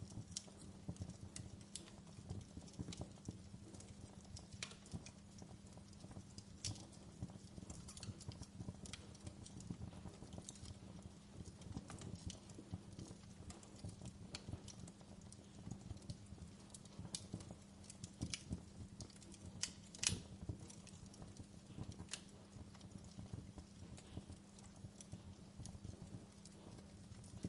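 Burning wood crackling in a fireplace: irregular sharp pops and snaps over a low steady rumble, with one louder pop about twenty seconds in.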